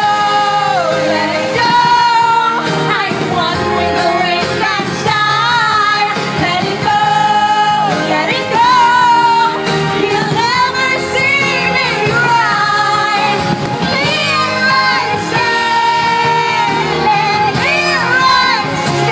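A woman singing a pop song with held, wavering notes over a recorded band backing track, played loud through a sound system.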